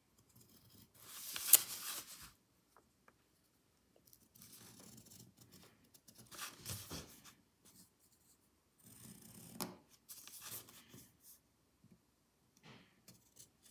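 Pencil drawing on folded paper, with the sheet rustling as it is handled: four short spells of scratching and rustling with quiet pauses between them, and a sharp click at the loudest point, about a second and a half in.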